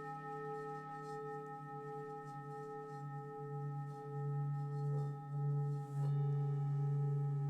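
Several singing bowls ringing together in long, overlapping tones, one with a slow pulsing wobble. A deep low tone swells louder about halfway through, with two soft knocks about a second apart near the end.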